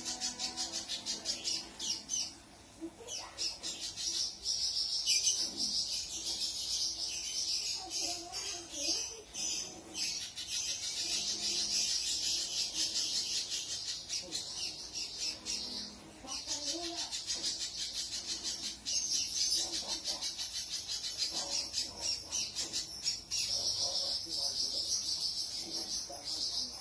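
Spiderhunter (pijantung) singing hard: long runs of a very fast, high-pitched chattering trill, breaking off briefly about three seconds in and again about sixteen seconds in.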